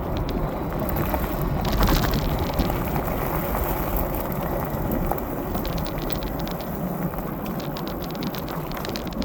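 Wind buffeting the microphone of a fat-tire e-bike moving through light rain, a steady rumbling rush with a scatter of fine ticks over it.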